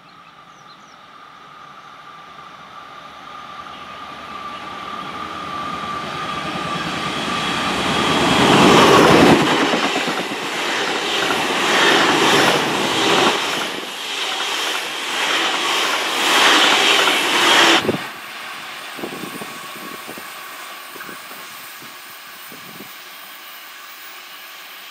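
Alstom Coradia LINT diesel multiple unit approaching and passing close by: its engine and wheels grow steadily louder, then pass with a rapid clatter of wheels over the rail joints. The sound cuts off abruptly about 18 seconds in to the fainter sound of a more distant train.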